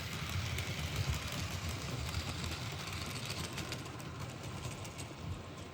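Model freight train running along the track: a steady low rumble of the motor and wheels with faint clicks from the rails, growing a little quieter near the end.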